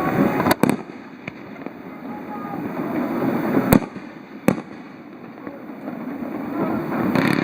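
Fireworks bursting overhead. Sharp bangs come about half a second in, again near the four-second mark and once more half a second later, over a low rumble that swells between them.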